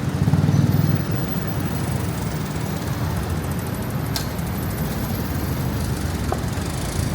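City street traffic with a motor vehicle engine running close by, its low rumble loudest for about the first second and then settling into a steady drone.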